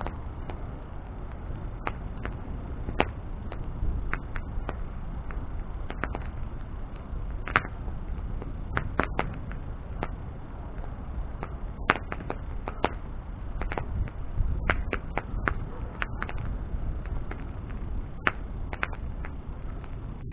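Wood bonfire crackling: irregular sharp pops and snaps, a few every couple of seconds, over a steady low rush of burning.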